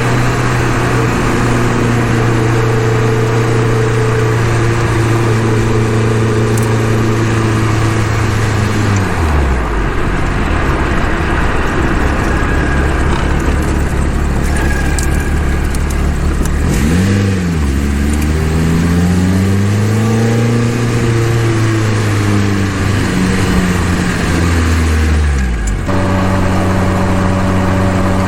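Honda K24-block, K20-head inline-four engine in an Exocet on the road, driven gently while still untuned. It holds a steady note, drops in pitch about nine seconds in, then rises and falls through gear changes before settling to a steady note again near the end.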